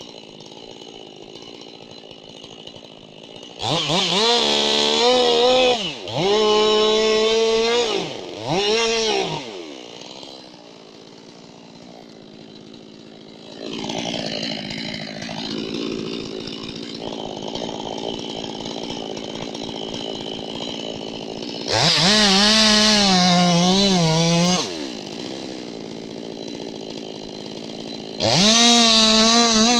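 Two-stroke chainsaw revved hard in repeated bursts, its engine note rising and falling, dropping back between runs. There are three short bursts a few seconds in, a quieter stretch through the middle, then two more full-throttle bursts near the end.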